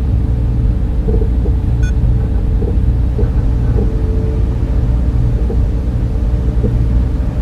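Data center ambience: server cooling fans and air handling running as a steady low rumble, with a faint constant hum on top.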